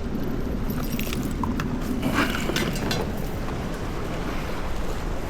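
Small boat running underway: a steady engine hum under wind and water noise, with a scatter of knocks and rattles in the middle.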